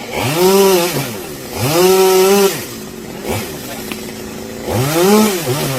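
Chainsaw engine idling and revving three times, its pitch rising and falling back each time.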